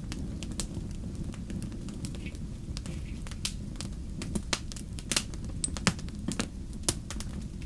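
Wood fire burning in a fireplace: a steady low rumble of flames with irregular sharp crackles and pops, a few louder pops in the second half.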